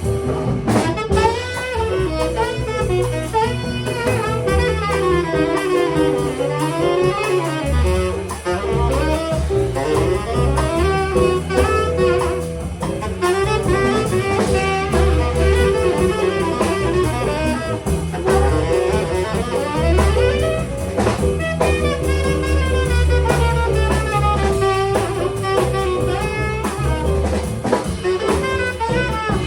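Instrumental jazz: a saxophone plays a bending, flowing melody line over upright-style bass and a drum kit.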